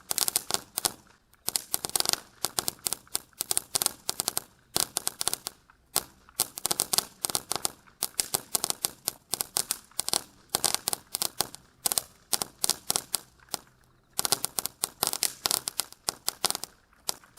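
Winda "Noisy Boys" firecrackers going off in rapid runs of sharp bangs, each run lasting a second or two with short gaps between.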